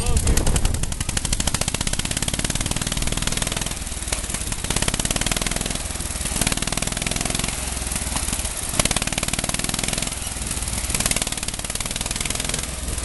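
A 1948 Wisconsin 9.2-horsepower engine on a homemade garden tractor running steadily, its exhaust a fast, even popping. A single sharp click about nine seconds in.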